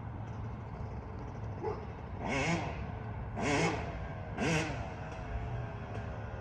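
Two-stroke dirt bike engine revved in three short blips about a second apart, each rising and falling in pitch, over a low steady hum.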